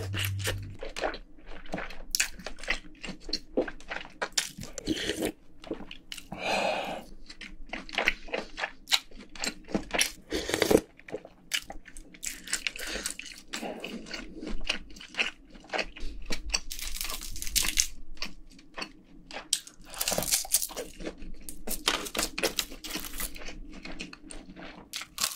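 Close-miked chewing and crunching of food, with wet lip smacks and mouth clicks coming irregularly throughout, a sharp louder click a little before halfway. A spoonful of the spicy braised pork ribs in sauce is taken and chewed partway through.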